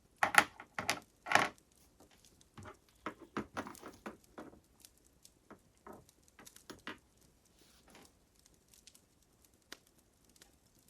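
Wood fire crackling, with three loud pops in the first second and a half, then scattered smaller crackles that thin out.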